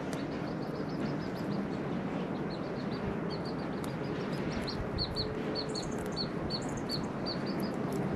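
A bird giving a long run of short, high chirps, about three a second, loudest in the middle, over a steady rushing background noise.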